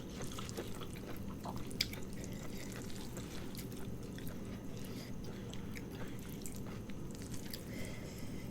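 A person chewing noodles close to the microphone: soft wet mouth sounds and small clicks, with a sharper click about two seconds in, over a steady low hum.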